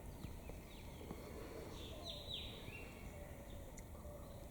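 Faint calls of rose-ringed parakeets: a few short, high, downward-sweeping shrieks, the clearest pair about two seconds in, followed by a brief level note.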